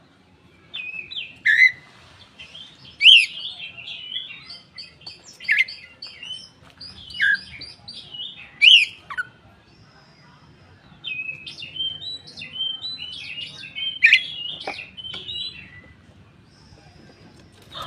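Koci songbird singing a lively run of chirps and whistled phrases, with several sharp, loud slurred notes and a brief lull about ten seconds in.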